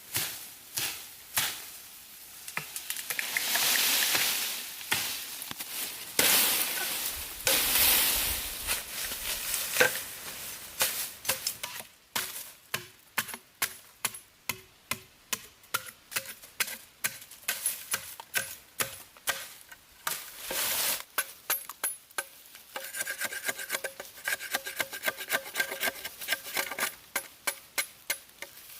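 A long run of sharp knocks and scrapes. In the middle they come at about two or three a second, and near the end they come faster, with a faint metallic ring.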